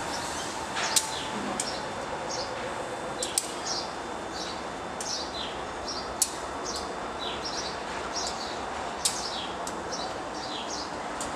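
A songbird chirping over and over in short, high, falling notes, several a second, with a few sharp clicks between. Underneath is the steady rumble of a diesel freight train approaching slowly.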